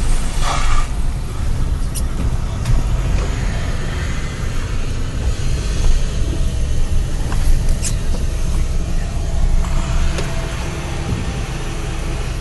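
Car driving along a road, heard from inside the cabin: a steady low rumble of engine and tyres, with a few sharp clicks or rattles.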